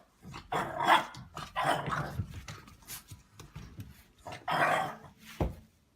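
A dog vocalizing in about three short bursts, with a sharp knock near the end.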